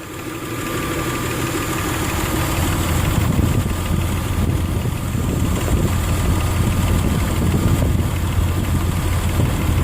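Nissan 3.3-litre V6 idling steadily at operating temperature, getting louder over the first couple of seconds as the microphone nears the engine. The engine is fresh from new head gaskets and a new timing belt and is running smoothly.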